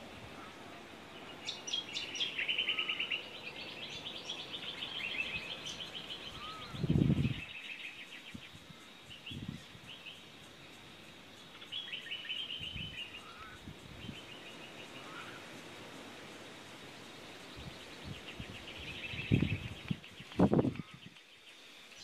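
Wild birds calling: bursts of chirps and rapid trills every few seconds. A low thump sounds about seven seconds in and two more come near the end; these are the loudest sounds.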